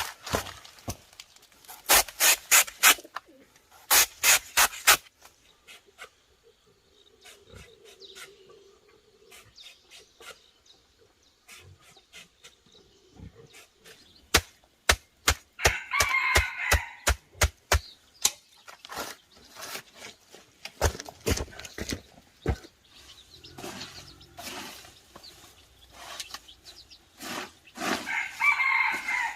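Quick runs of sharp knocks or taps, several a second, with a short bird call twice, about halfway through and near the end.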